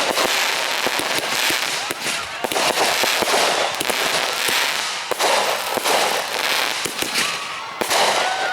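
Consumer firework cakes firing a dense, continuous barrage of pops and crackles.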